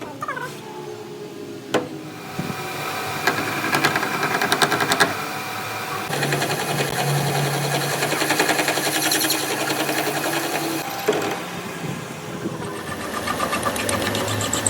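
A machine running with a rapid, even clatter, starting about two seconds in and changing in tone around eleven seconds.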